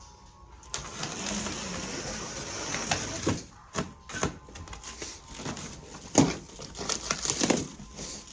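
A new carpet and its wrapping being handled and cut open: a rustling, scraping noise for a couple of seconds, then a series of sharp knocks and thuds.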